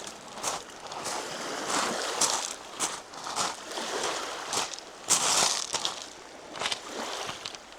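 Footsteps of a person walking on a trail, coming about two a second, over a steady outdoor hiss.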